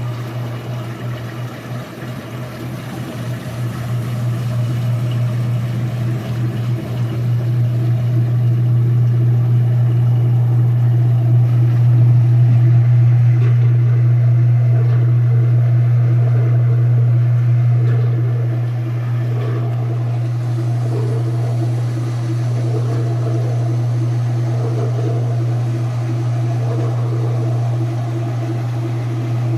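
Sears-Kenmore 110 Series washing machine running its spin cycle while the pump drains the water: a steady low motor hum that builds over the first several seconds as the basket comes up to speed, then holds. The spin engaged during the drain because the Neutral Drain Kit slipped.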